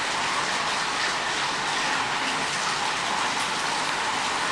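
Heavy rain pouring down steadily, an even dense hiss.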